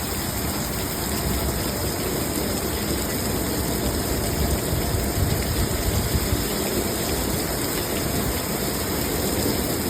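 Steady rushing noise of a heavy thunderstorm downpour, with a continuous low rumble underneath.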